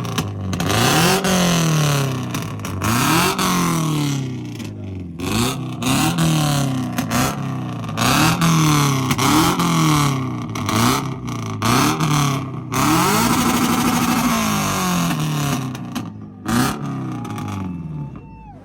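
A car engine with a loud aftermarket exhaust being free-revved over and over, each rev sweeping up sharply and falling back, roughly every one to two seconds. The revving eases off near the end.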